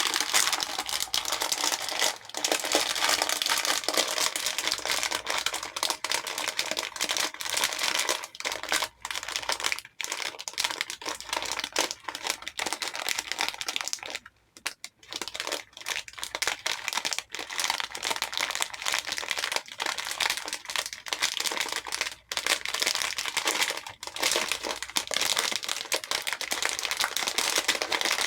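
Many small plastic hair beads clattering and rattling against a bowl as they are poured and stirred, a dense rush of tiny clicks. It breaks off briefly a few times, most clearly about halfway through.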